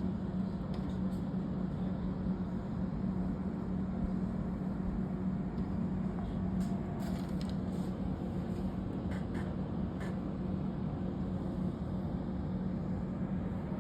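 A steady low mechanical hum with a constant rushing noise beneath it and a few faint clicks.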